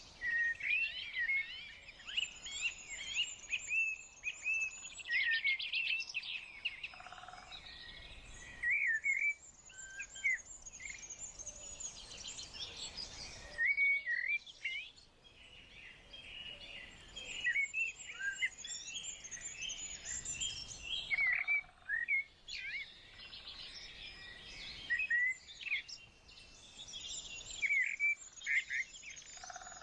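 Several small songbirds singing and chirping at once in a dense chorus of quick high notes and trills, with a few short lulls.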